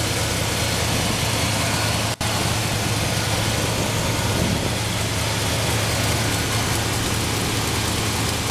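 Classic car engine idling steadily while warming up, with a steady low hum. The sound drops out for an instant about two seconds in.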